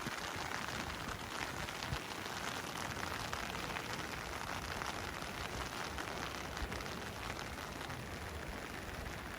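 Rain falling steadily in a rainstorm: a dense, even hiss of drops, with a few faint low thuds.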